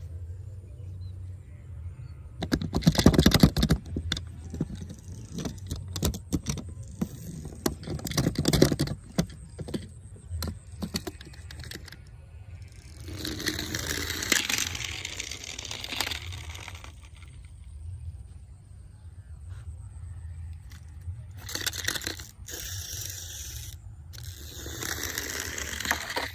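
Toy cars being handled, with irregular clattering, clinking and rattling, then stretches of scraping or rustling in the second half.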